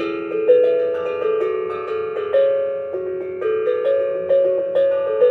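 Steel tongue drum played as a slow melody of single struck notes, about two a second, each ringing on under the next. The drum rests on the player's lap, which he says is muffling it so the notes don't resonate as well.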